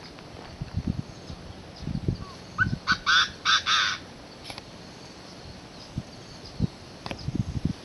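A bird gives one loud call of three or four quick notes about three seconds in, with scattered low bumps before and after it.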